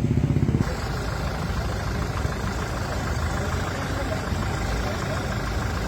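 Vehicle engine running at idle with a regular low throb, changing abruptly about half a second in to a steadier, noisier engine rumble.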